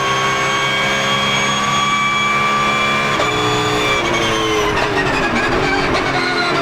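Porsche GT3 Cup race car's flat-six engine under way at speed. Its pitch climbs slowly, changes abruptly about three seconds in, then falls over the last few seconds as the car slows, with the note wavering.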